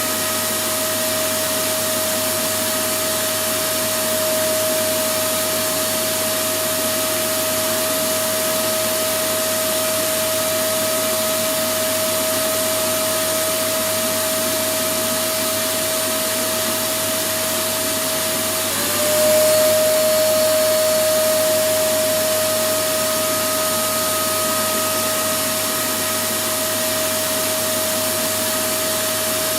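Electric vacuum cleaner running continuously: a steady hiss with a steady whine. About 19 seconds in, the whine drops slightly in pitch and the sound briefly gets louder.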